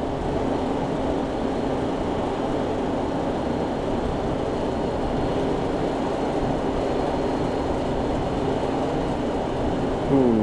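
Steady drone of fans and machinery running, an even whir with a faint low hum held at one pitch.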